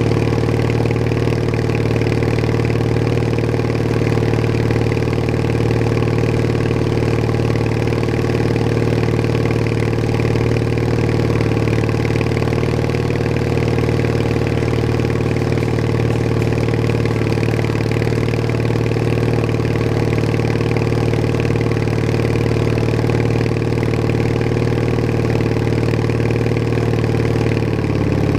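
Bolens HT20 garden tractor's engine running at a steady speed under the recording rider, with the pitch dipping slightly near the end.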